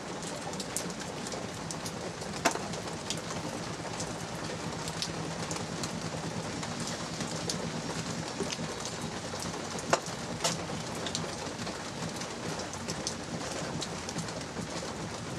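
Light rain falling steadily, with scattered sharp drip-like clicks, the clearest about two and a half seconds in and near ten seconds, over a faint steady low hum.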